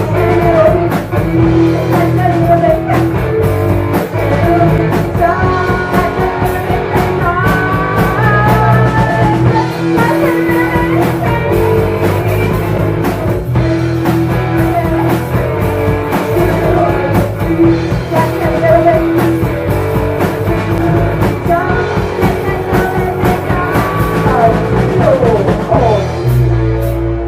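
Live rock band playing loudly, with electric guitar, a heavy bass line and drum kit. Near the end a run of notes slides downward in pitch.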